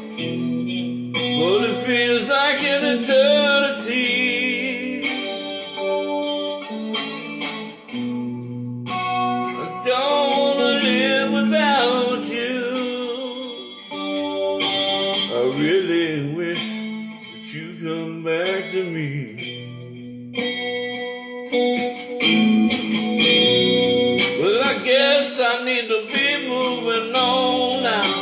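Guitar music played through a chorus effect: steady chords over a bass line, with a lead melody that bends and wavers in pitch in several phrases, and no lyrics.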